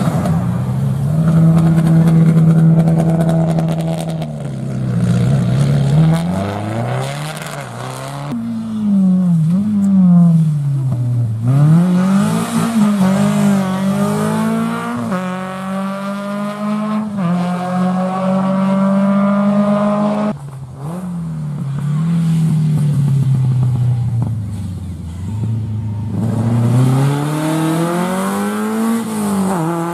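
Rally cars driven hard on a special stage. The engine note climbs steeply again and again, then drops sharply at each gear change or lift-off for a corner.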